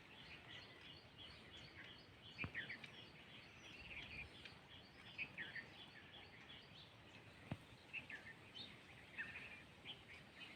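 Faint chirping of small birds: scattered short high calls over a steady run of brief notes about three a second that stops about seven seconds in. Two sharp taps stand out, about two and a half and seven and a half seconds in.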